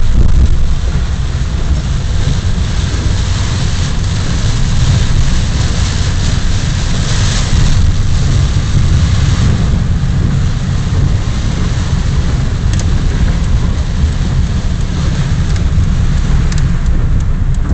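Heavy rain with a loud, steady low rumble underneath, the hiss swelling a little about halfway through.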